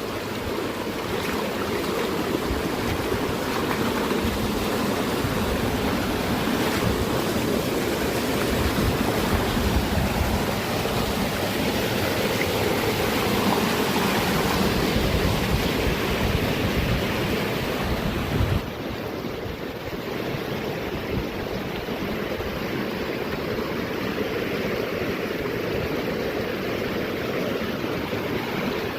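Steady rushing of water running over rocks, a continuous even noise. About two-thirds of the way through it drops slightly in level and loses some of its hiss.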